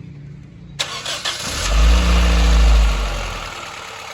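2015 Toyota Corolla GLI engine cranked by the starter and catching about a second in. Its revs flare up and then drop back toward idle.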